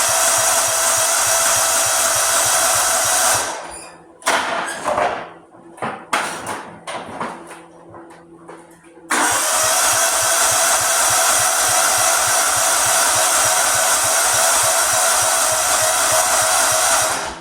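Riding lawnmower's electric starter cranking the engine without it catching: a steady cranking whir with a fast even pulse, about 3.5 s long, then some 5 s of clicks and knocks, then a second crank of about 8 s that stops just before the end.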